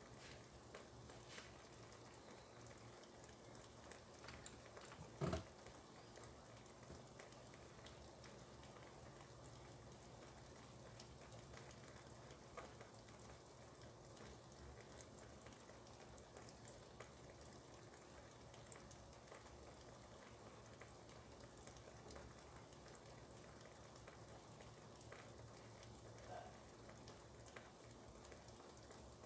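Faint steady rain with scattered drops. A single brief knock about five seconds in.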